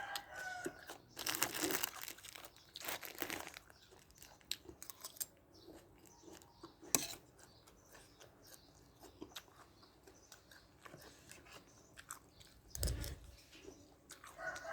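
Close-up chewing and crunching of crisp food in the mouth, with the loudest crunches about one and three seconds in and quieter chewing clicks after.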